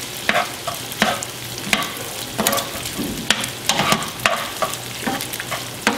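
Bacon, chorizo and sausage frying in a pan with a steady sizzle, while a slotted spoon stirs them, scraping and knocking against the pan about once a second at an uneven pace.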